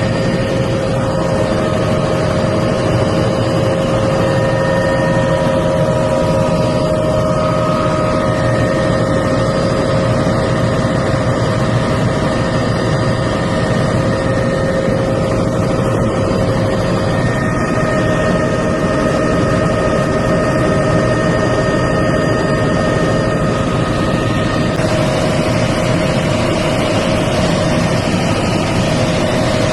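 Helicopter engine and rotor noise, a loud steady rumble with a steady turbine whine over it; the whine shifts slightly about 25 seconds in.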